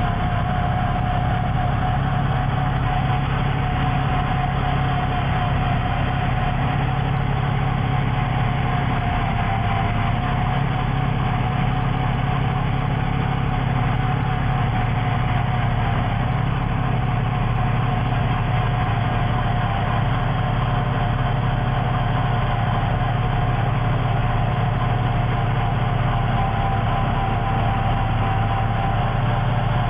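Heavy snow-removal machine's engine running steadily, a constant low drone with a steady higher whine over it.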